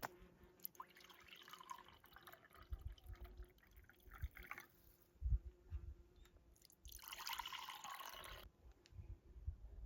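Liquid being poured and dripping into a container. There is an uneven trickle over the first few seconds, then a steadier pour for about a second and a half near the end, with soft low knocks of handling.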